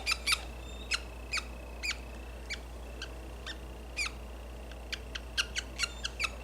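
Budgerigar chick giving short, sharp calls, each dropping in pitch, about two a second and quickening near the end: protest calls while it is held still and handled.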